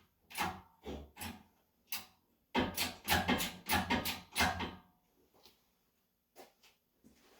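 Hand-tool work on metal parts in a garage: a series of short scraping and knocking strokes, irregular at first, then a busier run of about five strokes from about two and a half to almost five seconds in, then a few faint ones.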